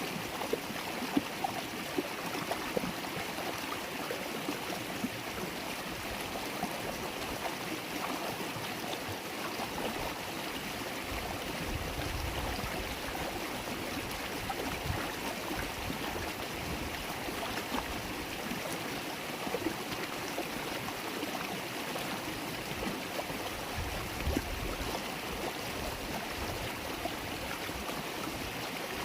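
River water flowing and babbling over stones, a steady burbling with small splashes throughout and a brief low rumble now and then.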